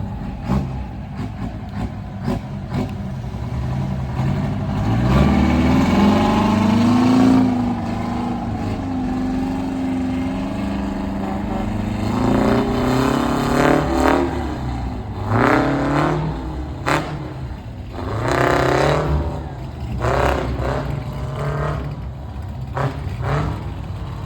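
Two-stroke Detroit Diesel truck engine revving: one longer climb and hold, then a string of short throttle blips that rise and fall.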